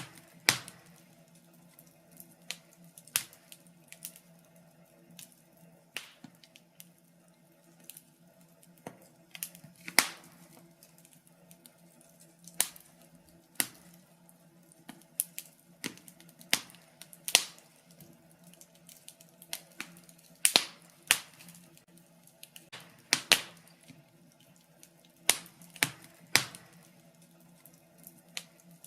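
Wood fire crackling in a fireplace, with sharp irregular pops about once a second, some much louder than others.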